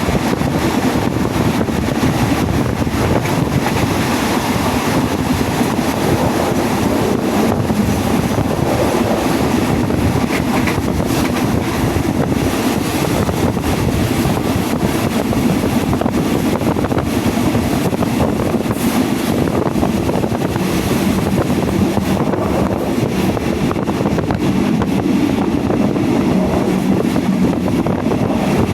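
Passenger train running along the line, heard from inside a carriage: a steady rumble of wheels on the rails with wind buffeting the microphone.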